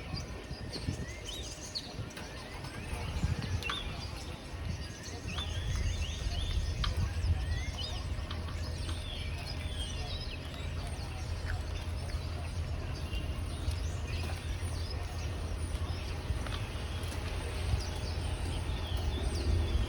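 Small birds chirping and tweeting in many short, quick calls, over a steady low rumble.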